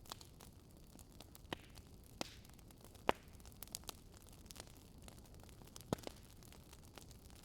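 Wood fire crackling: irregular sharp pops and snaps over a faint steady hiss, the loudest pop about three seconds in.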